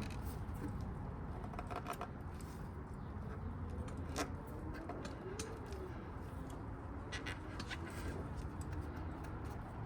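Faint scattered clicks and taps of hands working rubber intake boots onto motorcycle carburetors, over a low steady hum.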